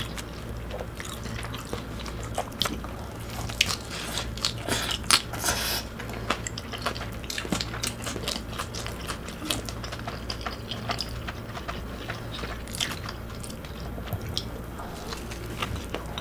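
Close-miked biting and chewing of a hamburger: a run of short wet mouth clicks and smacks, busiest a few seconds in, over a steady low hum.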